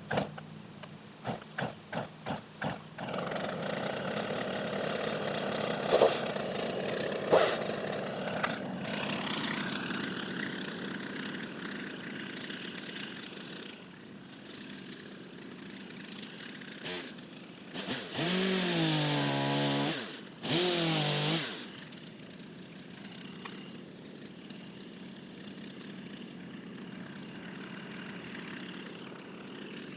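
Gas chainsaw being pull-started: several short pulls, then the engine catches about three seconds in and runs at idle. Around two-thirds of the way through it is revved twice, the pitch rising and falling each time, before settling back to idle.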